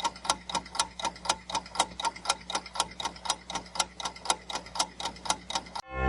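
Ticking-clock countdown timer sound effect, a steady tick-tock of about four to five ticks a second. A loud ringing tone cuts in just before the end, as the timer runs out.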